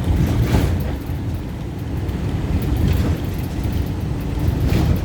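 Inside a paratransit bus cabin while riding: steady low engine and road rumble, with two brief sharper noises about half a second in and near the end.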